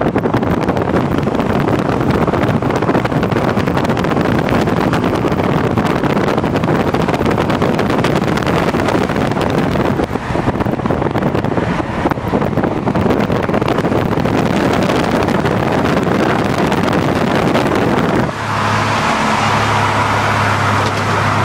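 Vehicle travelling at speed, with loud wind and road noise over the engine. A little past 18 seconds the noise drops abruptly into a steadier drone with a low hum.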